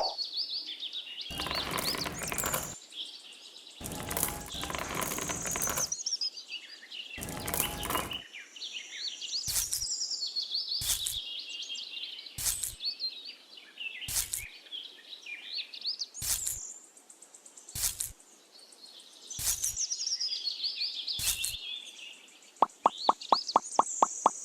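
Small birds chirping and twittering, with repeated short bursts of broad noise cutting in every second or two, and a quick run of even pulses near the end.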